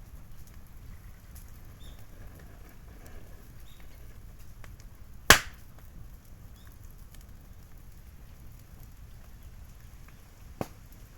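Bamboo burning in a wood fire, crackling softly with small pops, then bursting with one loud sharp crack about halfway through and a smaller crack near the end: sealed bamboo sections splitting open as the heat builds up pressure inside them.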